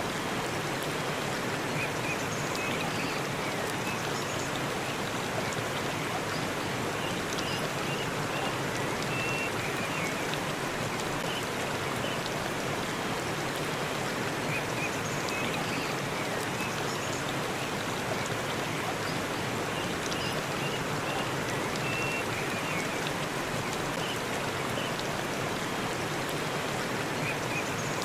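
Forest waterfall: the steady, even rush of falling water.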